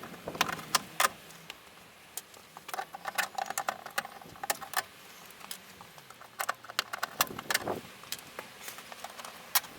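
Irregular sharp clicks and taps of a metal trim clip tool and plastic trim being handled and pried, with a faint squeak in the middle.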